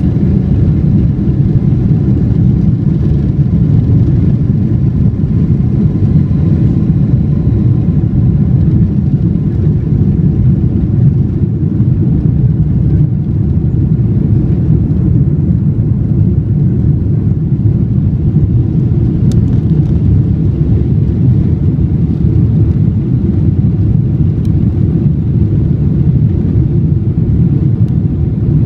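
Steady low rumble inside the passenger cabin of a four-engine Boeing 747-400: the turbofan engines and airflow, with a faint steady whine above the rumble.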